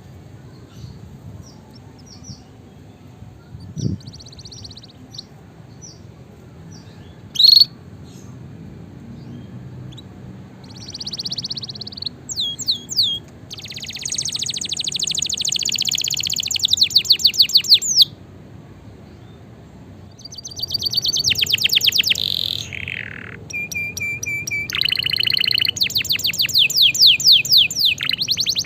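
Domestic canary singing: a few scattered chirps at first, then from about halfway in long, rapid trills and runs of quick repeated notes, growing louder toward the end. A low steady background hum runs underneath.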